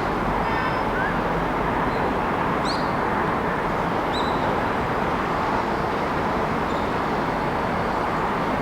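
Steady city traffic noise, a continuous hum of vehicles, with a few brief high chirps about three and four seconds in.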